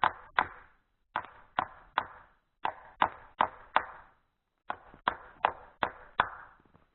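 Hammer driving a nail into a wooden pole: repeated sharp blows, about two to three a second, in short runs with brief pauses.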